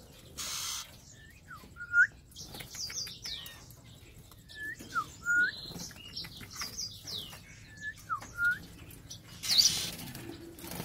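Caged young softbill birds calling: a phrase of clear whistles, some gliding up and some sliding down, repeated about every three seconds, with a short harsh burst near the start and another about a second before the end.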